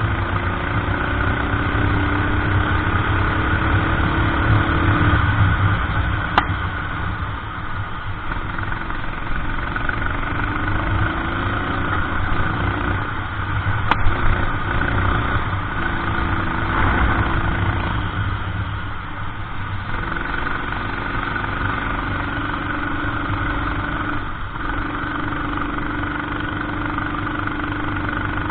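Racing kart engine heard onboard during a lap, its pitch climbing steadily as it accelerates out of each corner and then dropping back as the driver lifts, several times over. Two sharp clicks stand out, about six seconds in and about fourteen seconds in.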